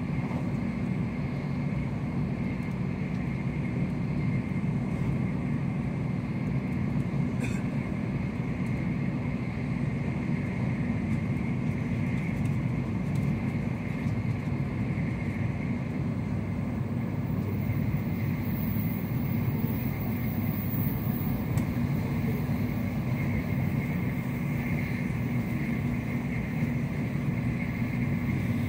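Steady running noise of an N700S Shinkansen at speed, heard from inside the passenger cabin: a deep, even rumble of wheels on rail with a fainter hiss above it.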